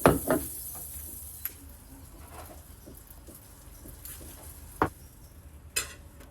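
A loud double knock of kitchenware, such as a pot or dish set down, right at the start as the running tap water cuts off. Then a few scattered sharp clicks and knocks, about one every second or two.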